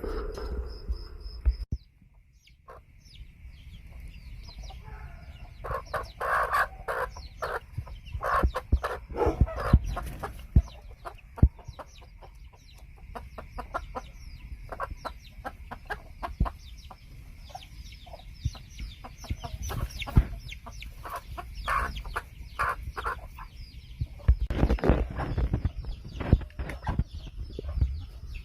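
Chickens clucking, with many short sharp clicks and a faint steady high tone that stops near the end.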